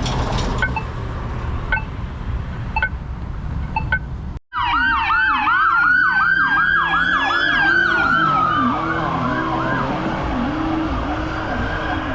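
Accessible pedestrian signal ticking its locator tone about once every 0.7 s. After a brief dropout, emergency vehicle sirens take over: one in a fast up-and-down yelp that slows into a long falling wail, with a lower siren sweeping beneath it.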